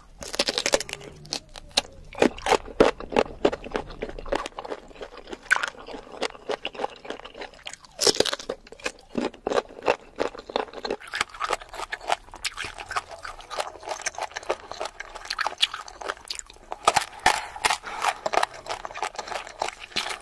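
Crunching and chewing of raw sour mango: a quick, steady run of crisp bites and chews.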